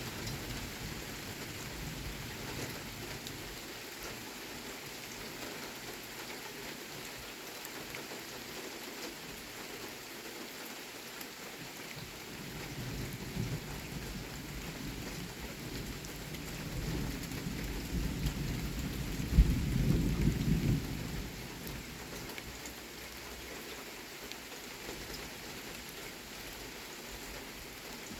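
Thunderstorm: steady rain falling, with a roll of thunder that builds past the middle, peaks in a sharp crack and rumbles away a couple of seconds later.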